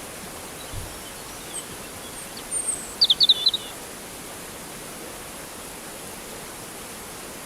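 Birds chirping over a steady rush of flowing water. A few faint high calls come first, then a quick run of about six loud chirps about three seconds in.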